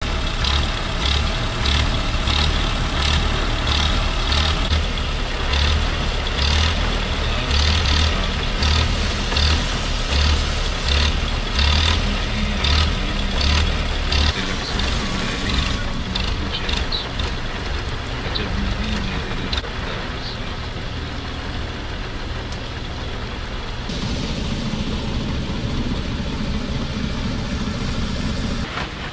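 Heavy rain pouring onto a flooded road, a steady hiss, with a regular thumping beat over it for roughly the first fifteen seconds. A lower rumble comes in near the end as a car drives through the rain.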